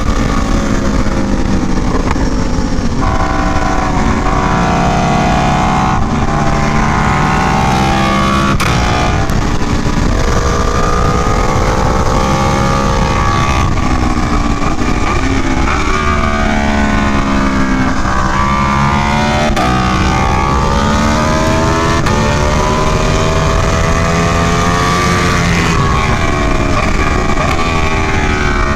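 Aprilia Tuono V4 1100 Factory's V4 engine at full track pace. The revs climb hard through the gears, step with each upshift, and drop away under braking several times over, with wind rush underneath.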